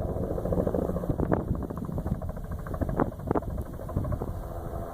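Crop-spraying helicopter flying over the orchard, its rotor beating steadily as a rapid chop over a low rumble, with wind buffeting the microphone.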